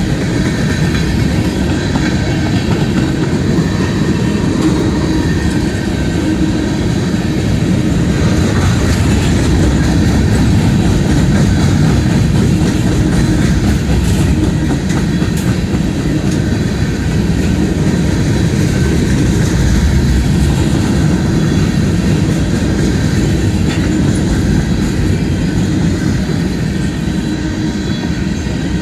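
Freight train rolling steadily past, its steel wheels clicking over the rail joints under a continuous rumble.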